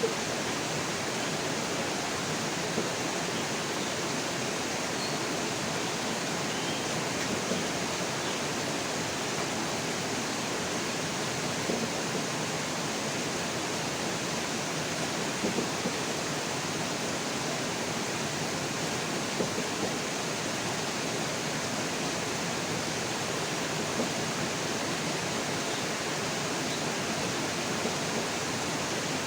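Steady rain falling, an even hiss with a few louder drops or taps now and then.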